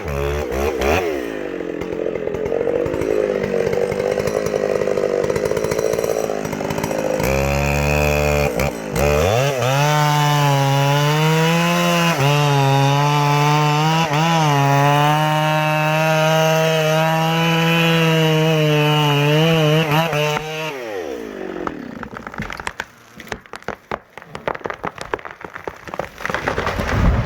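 Chainsaw running at high revs and cutting, its pitch dipping and recovering as the chain loads in the wood. About twenty seconds in it falls off and winds down, followed by scattered sharp cracks and knocks and a loud thump near the end.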